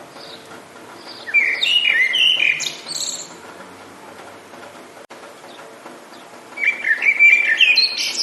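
A songbird singing two phrases of quick, rapid chirps a few seconds apart, over a steady hiss of rain.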